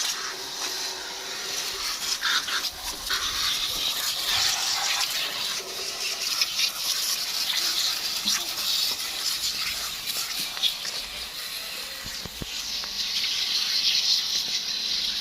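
Water spraying and splashing onto a motor scooter being washed: a steady hiss with irregular spatters, swelling again near the end.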